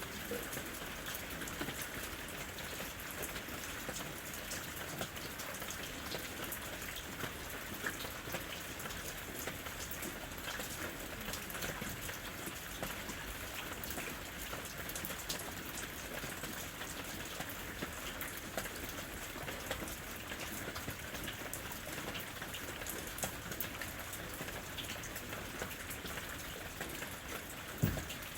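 Steady rain falling in a forest, an even hiss with many separate drops ticking on leaves and surfaces, and one louder knock near the end.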